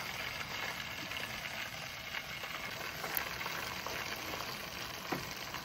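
Biscuit-dough donuts frying in oil in a camp cooking pot: a steady sizzle with scattered small pops and crackles.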